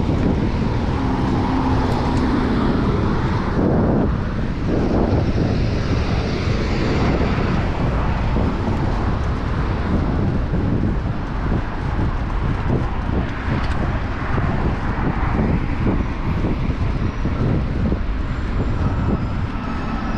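Steady city traffic noise mixed with wind rushing over the microphone of a moving bicycle, with a passing vehicle's engine hum in the first few seconds.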